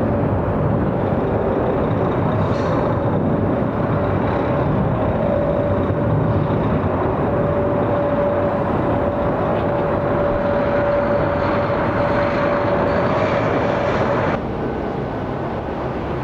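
Jet airliner engines running: a steady rushing noise with a constant whine. It cuts off abruptly to quieter background noise about 14 seconds in.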